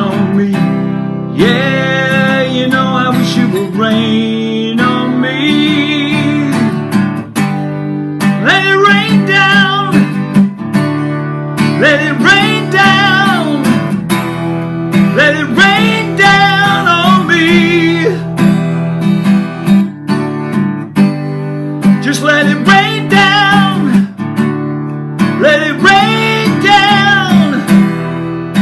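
Acoustic guitar strummed, with wordless singing in phrases over it, wavering in pitch.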